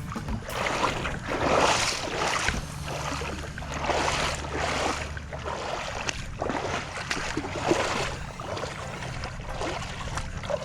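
Shallow seawater sloshing and washing, with small waves lapping in uneven surges every second or two.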